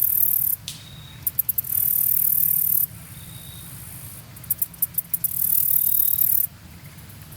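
A dry, high-pitched rattling buzz in three bursts of about one second each. Each burst starts with a few quick clicks. A steady low hum runs underneath.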